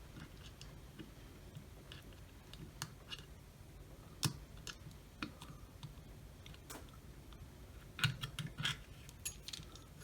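Small, irregular clicks and taps of plastic parts being handled while a camera module's connector is worked back into place inside a security camera, with a louder click about four seconds in and a quick run of clicks near the end.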